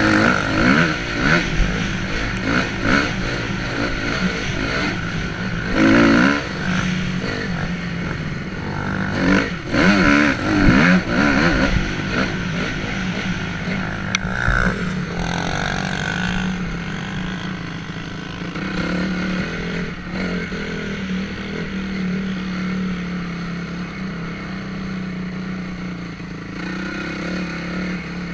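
Honda CRF250R's single-cylinder four-stroke engine heard from on the bike as it is ridden hard, revving up in several sharp surges during the first ten seconds or so, then running more evenly and a little quieter.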